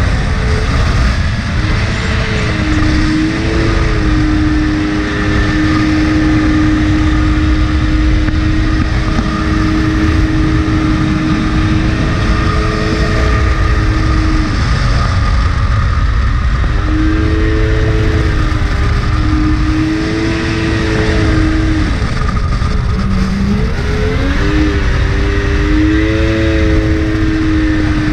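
Yamaha 1100 two-stroke personal-watercraft engine in a mini jet boat running hard at steady high revs. The throttle eases off and comes back on about halfway through and again near the end, over a constant rushing noise.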